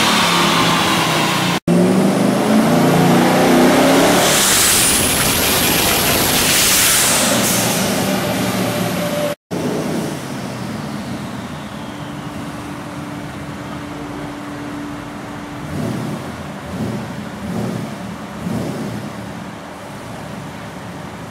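Twin-turbo 4-litre Ford Capri engine on E85, run hard on a chassis dyno, its pitch rising. After about nine and a half seconds it drops to quieter running with a steady tone, then a few short blips of the throttle. The sound cuts out for an instant twice.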